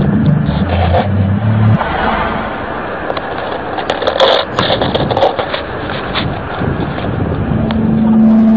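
A loud, steady low droning tone with overtones, of the kind passed off as the 2012 'strange sounds' in the sky, cuts off suddenly about two seconds in and comes back near the end; between, a noisy outdoor rumble with scattered clicks.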